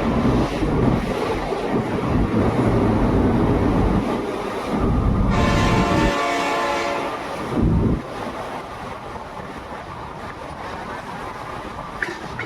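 Train running with a loud, steady rumble, and its horn sounding for a couple of seconds about five seconds in; the noise falls away to a quieter steady rumble after about eight seconds.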